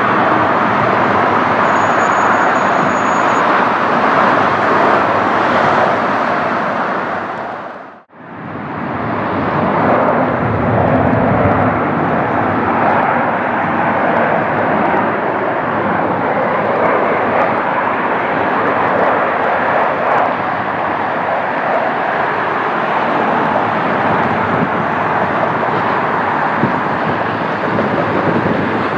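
Jet airliner engines running loud and steady. About eight seconds in, the sound fades out to nothing for a moment and comes straight back.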